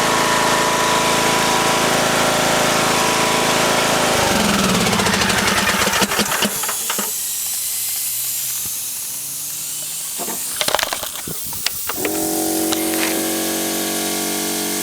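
The Craftsman YT3000's Briggs & Stratton engine runs steadily, then its pitch slides down and fades about four seconds in as it winds down. A hiss carries on with a few clattering knocks, and a steady hum of a different pitch starts near the end.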